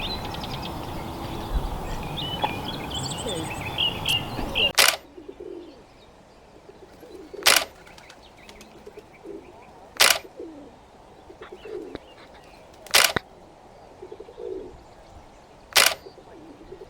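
Small birds chirping over a steady outdoor rush of noise, cut off abruptly after a few seconds; then a quieter scene where a pigeon coos repeatedly and four sharp clicks sound, roughly every three seconds.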